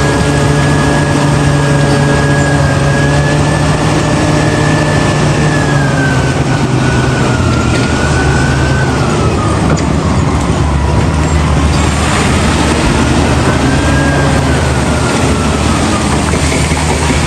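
Heavy diesel earthmoving machinery running under varying load. The low engine note drops in pitch about six seconds in, and a high whine slowly rises and falls in pitch over it.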